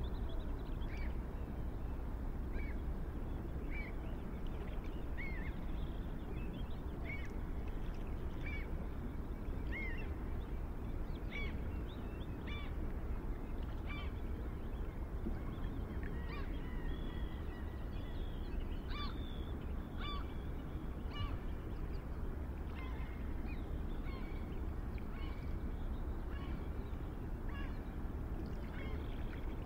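Birds calling: short, high chirps repeated roughly once a second, over a steady low background rumble.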